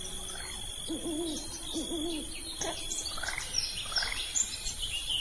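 Evening outdoor ambience of animal calls: a low wavering hooting call twice, about a second apart, early on, with scattered short bird chirps over a steady high insect drone.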